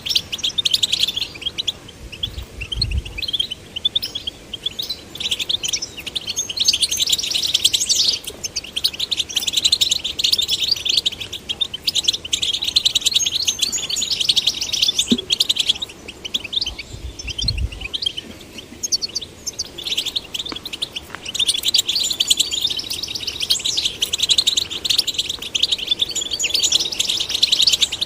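European goldfinch song: long runs of rapid, liquid twittering with buzzy notes, broken by a couple of brief pauses.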